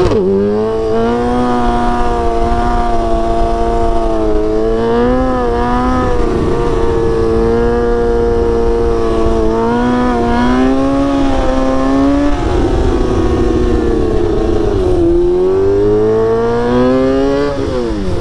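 Sportbike engine running at a steady high speed, its pitch easing up and down gently, with a quick rev right at the start and a drop in pitch near the end.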